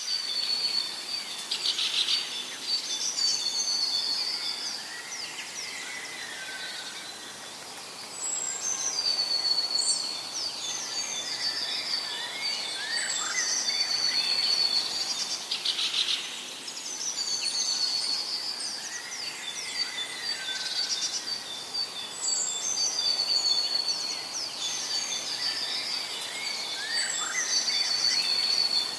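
Several birds singing and chirping: whistled phrases and trills over light outdoor background noise, with a burst of rapid clicks about every fourteen seconds. The whole birdsong sequence repeats at that spacing, like a looped nature-ambience track.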